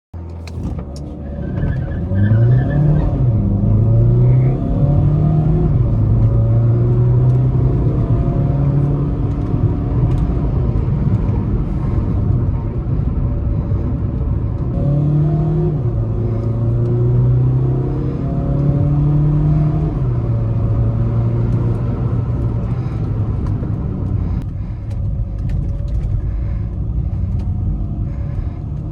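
Volkswagen Vento's 1.5 TDI diesel engine under acceleration with quick DSG upshifts. The engine pitch rises and drops back in steps at each shift, about two seconds in and again about fifteen seconds in, then settles into steady running between and after the pulls.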